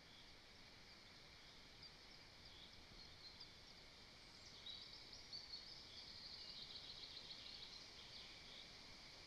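Faint high-pitched bird chirps and twitters over a steady low hiss, busiest in a run of chirping from about the middle to near the end.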